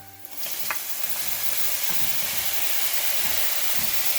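Tomatoes going into a pan of hot oil and fried onions, sizzling loudly: the sizzle jumps up about half a second in and then holds steady.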